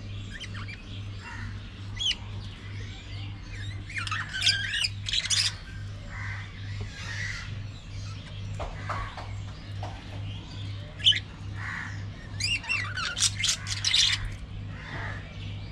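Pet budgerigars chattering and squawking, with short sharp chirps and two bursts of rapid, louder chatter, one about four seconds in and one near the end.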